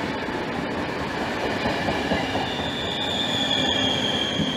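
Czech Railways (České dráhy) passenger coaches rolling past on arrival, a steady rumble of wheels on rail. About halfway through, a high, steady wheel squeal sets in and holds.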